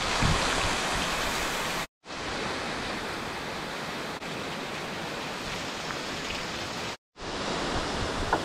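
Steady rush of water pouring through a cave during heavy rain, cut off twice for a moment.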